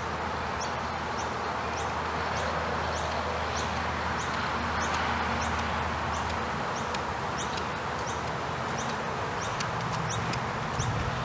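A bird repeats a short, high, rising chirp about every half second over a steady outdoor hiss. Near the end the horse's hoofbeats on dirt come in faintly as it trots toward the camera.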